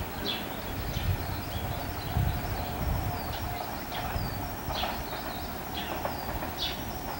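Tobu 350 series electric train running away along the track, its wheels on the rails giving an uneven low rumble. Short, high bird chirps repeat over it.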